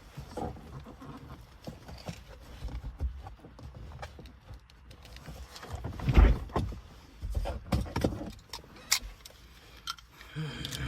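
Hands wrestling with a hard-to-open product package: rustling with scattered clicks and knocks, and a heavy thump about six seconds in.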